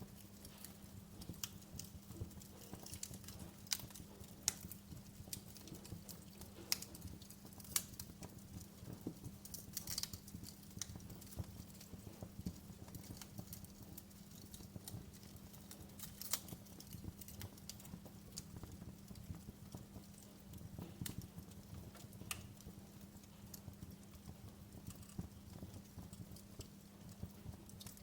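Wood fire crackling in a fireplace: irregular sharp pops and snaps, a few of them louder, over a faint steady low hum.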